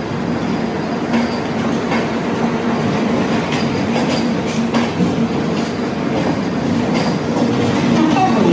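Train rolling past on the track, its wheels clicking over rail joints every second or so above a steady rolling noise and a low hum.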